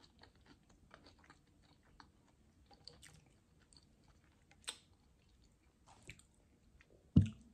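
Close-miked chewing of a mouthful of McDonald's French fries: many soft mouth clicks and smacks, one sharper click about four and a half seconds in, and a short, louder thump near the end.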